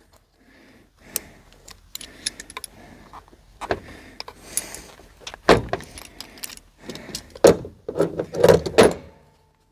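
Small metal objects clinking, rattling and knocking as tools are handled, picked up and set down. The sharp clicks are irregular, with a few louder clunks in the second half.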